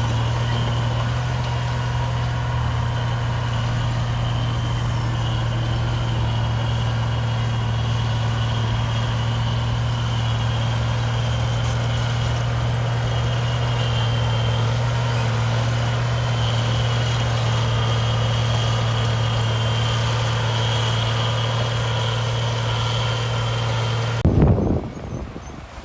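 Heavy diesel engine of earthmoving machinery running steadily, a deep hum with a faint high whine over it. About a second before the end it cuts off suddenly into a few loud low thumps.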